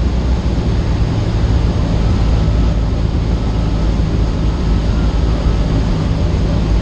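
Cessna 152's four-cylinder Lycoming engine and propeller droning steadily in flight, heard from inside the cabin.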